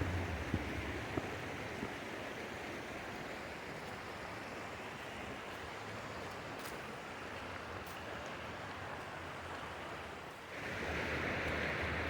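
Flowing water rushing steadily, with a low rumble near the start. It grows louder and brighter about ten and a half seconds in.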